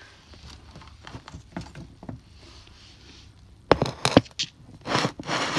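Handling noise from the camera being put down and things being moved: faint small ticks at first, then a cluster of sharp knocks about four seconds in, followed by rustling near the end.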